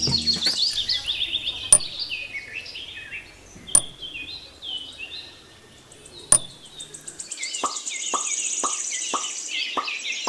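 Birds chirping over and over in quick, high twittering phrases, with three sharp clicks spread through the first two-thirds. From about three-quarters of the way in, a steady run of short falling plops comes in, about two a second.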